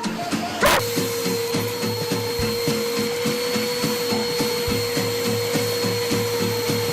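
A vacuum cleaner switching on suddenly about a second in and running with a steady whine and hiss, over a background music beat.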